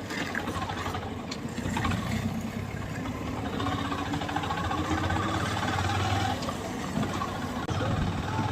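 Motorcycle engine running steadily at low speed, a low, even hum.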